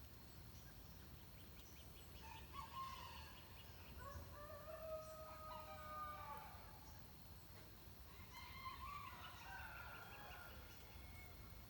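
A distant rooster crowing twice, faintly, about two seconds in and again near the end, with scattered small bird chirps over a low background rumble.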